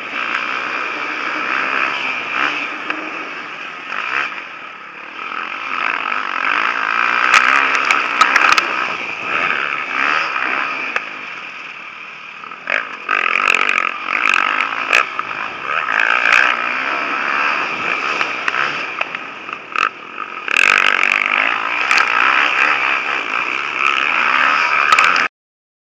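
Motocross bikes racing on the track, their engines revving up and down as riders pass, swelling louder several times. The sound cuts off suddenly near the end.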